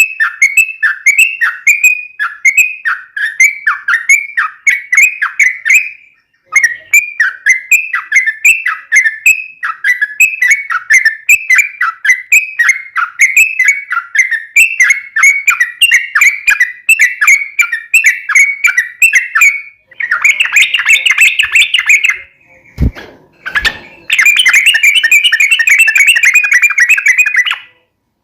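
Yellow-vented bulbul (trucuk) singing loud and unbroken: a long run of short, bubbly chirping notes, then two faster, denser trills near the end. Two brief low knocks fall between the trills.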